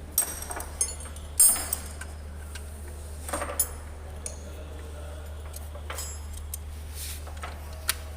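Metal hand tools and engine parts clinking and knocking, scattered irregular clinks with the loudest about a second and a half in, as sockets and bolts are handled during an engine teardown. A steady low hum runs underneath.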